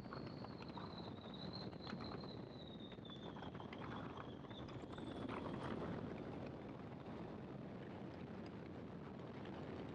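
Great Lakes open-cockpit biplane in flight: steady engine and wind noise picked up through the cockpit microphone, with a thin high whine slowly falling in pitch over the first half.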